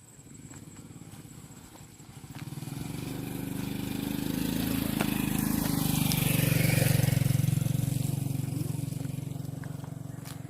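Motorcycle engine passing by, growing louder for a few seconds, then fading away.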